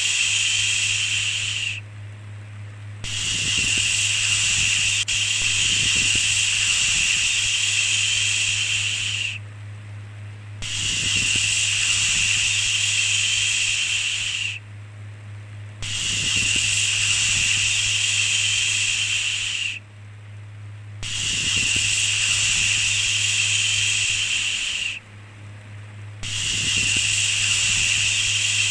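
A drawn-out 'shhh' shushing sound repeated over and over, each hiss lasting about four to six seconds with a pause of about a second between, over a steady low hum.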